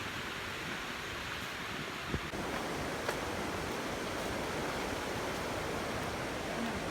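Steady rushing noise with no clear tone, getting slightly louder a little over two seconds in.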